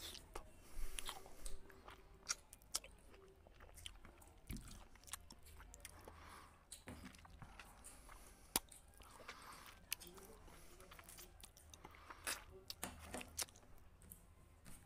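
A man chewing and eating by hand: mouth sounds of chewing with irregular crisp clicks and crunches.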